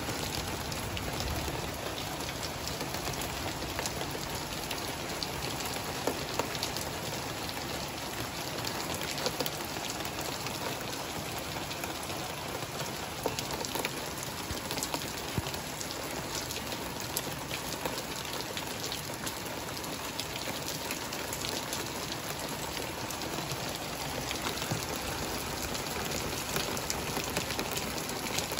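Rain falling steadily during a thunderstorm, an even hiss with scattered sharp ticks of drops striking nearby surfaces.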